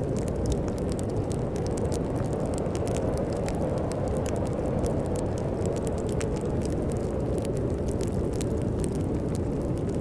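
Wood fire crackling in a fireplace, with many irregular sharp pops, over a steady low rumble of storm wind.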